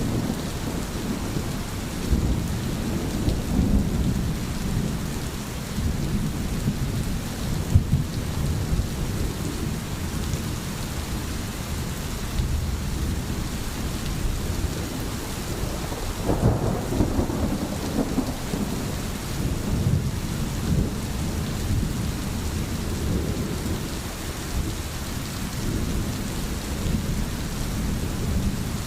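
Steady heavy rain with low rumbling thunder underneath, the rumble swelling about sixteen seconds in.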